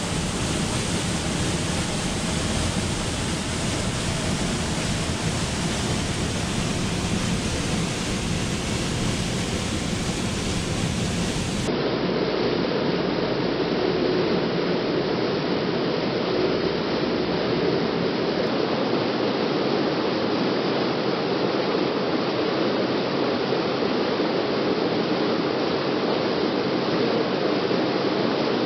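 Waterfall rushing steadily, with an even hiss of falling water. About twelve seconds in, the sound changes abruptly and loses its deep rumble.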